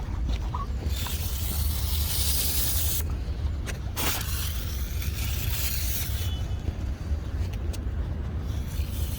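Hand sprayer hissing as it sprays cleaning agent onto stone, in several long spells with short pauses between them.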